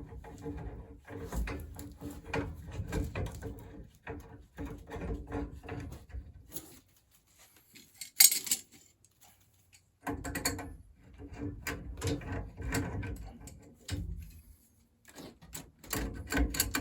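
Threaded metal pipe being fitted and connected by hand: runs of clicks and clattering metal knocks, with one loud sharp clank about eight seconds in.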